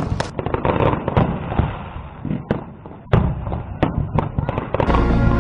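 Fireworks display: aerial shells bursting in a rapid series of sharp bangs, with crackling between them. Music begins near the end.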